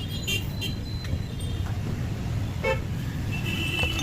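Steady road traffic rumble with several short vehicle horn toots, the longest near the end.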